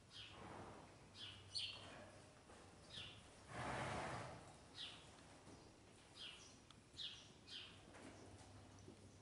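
Faint chirping of small birds: short high chirps, each sweeping downward, every second or so. About halfway through comes a soft breathy rush lasting about a second, over a low steady hum.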